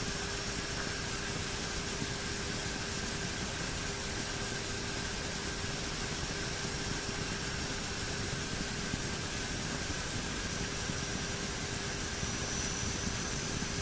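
Steady cockpit noise of a twin turboprop airliner in flight: engine and propeller noise with a constant low hum and a fainter high whine over an even hiss.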